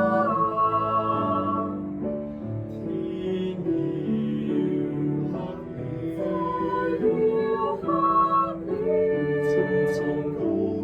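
Small four-part mixed choir (sopranos, altos, tenors, basses) singing in Cantonese, several voice parts holding and moving between chords.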